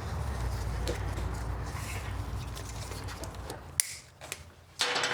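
Handling noise from hands-on work on a motorcycle's wiring: a low rumbling rustle, then a sharp click about four seconds in, a few lighter clicks, and a short scuffing noise near the end.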